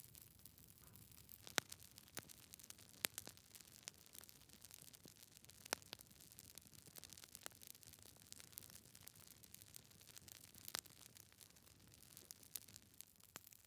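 Wood fire in a fireplace crackling quietly: frequent irregular snaps and pops of burning logs over a faint hiss, with a few sharper, louder pops.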